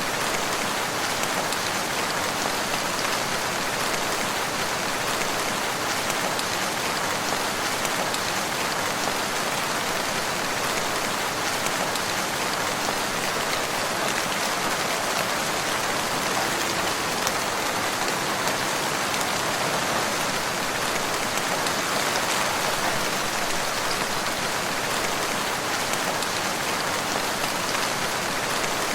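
Steady rain falling, a dense even patter of drops on surfaces without let-up.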